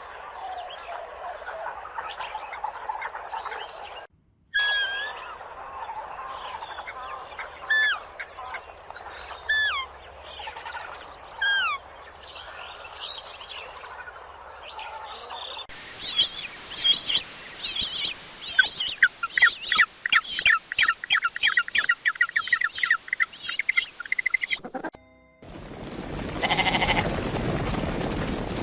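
A run of different wild animal calls, mostly birds. A dense chorus of calls comes first, then a repeated call that falls in pitch about every two seconds, then a fast, rhythmic run of chirps. Near the end comes a louder, harsher call.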